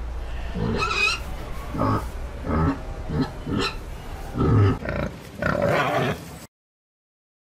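Domestic pig grunting and oinking, a string of about eight short calls that cuts off suddenly about six and a half seconds in.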